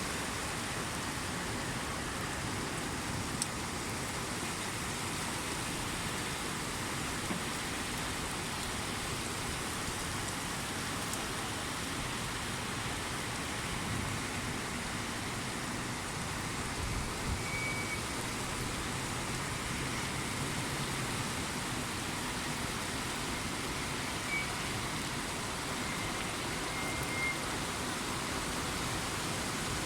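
Steady rain falling, with a low rumble partway through.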